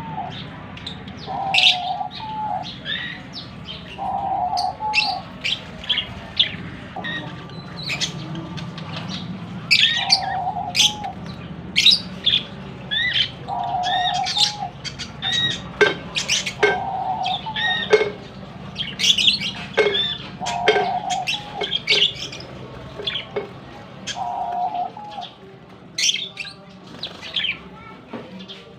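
Caged birds calling: small parrots chirp rapidly throughout, while a dove gives a short low coo every two to four seconds.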